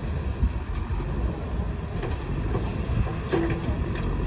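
Diesel engine of a JCB 3DX backhoe loader running, a steady low rumble, with a brief higher tone a little over three seconds in.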